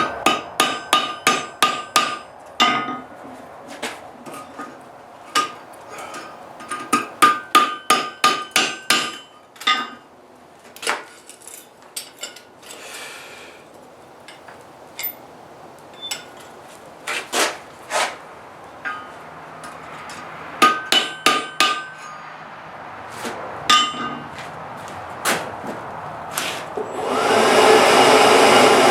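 Hand hammer striking hot steel on an anvil in bursts of quick blows with pauses between, each blow ringing. Near the end a steady rushing air noise comes on, as of a forge blower.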